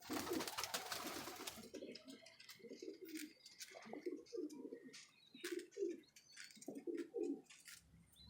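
Domestic high-flyer pigeons cooing over and over in low, rolling coos. A rustling noise fills about the first second and a half, and sharp clicks are scattered throughout.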